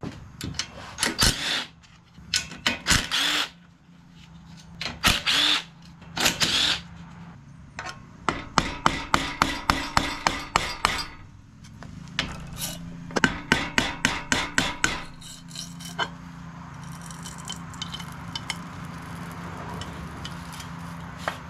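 Tools taking the valve cover off a Briggs & Stratton mower engine. There are short bursts of a power driver in the first several seconds, then runs of rapid clicking at about four a second while the cover bolts are worked loose, and a steady rushing noise in the last few seconds.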